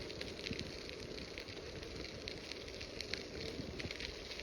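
Bicycle tyres rolling over a crushed-stone trail surface, giving a steady irregular crackle of small clicks over a low rumble.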